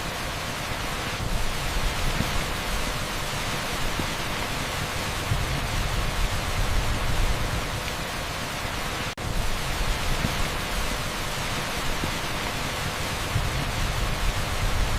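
Torrential rain pouring onto an asphalt street, a steady, dense hiss. It cuts out for an instant about nine seconds in.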